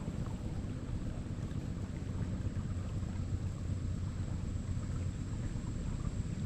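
Steady low rumble of a small boat under way on the river, with wind buffeting the microphone.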